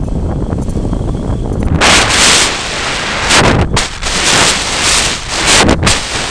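Strong, gusty wind buffeting the microphone: a constant low rumble, with loud hissing blasts coming in gusts about two seconds in and several more in the second half.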